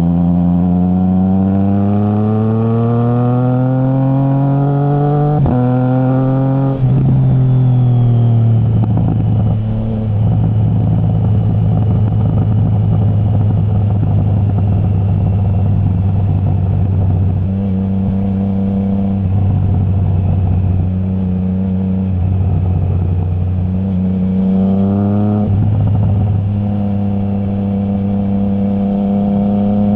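Triumph Trident 660 inline-three engine through a baffle-removed Zard stainless full exhaust, accelerating with pitch climbing, snapping through a quickshifter upshift about five seconds in, then dropping to a lower steady drone. It runs fairly steadily with small rises and falls before another quick upshift with rising revs near the end, over a haze of wind and road noise.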